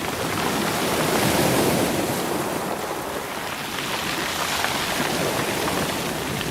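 Sea waves washing over a rocky, stony shore, with the stones rolling in the surf. The rushing swells slightly about a second in.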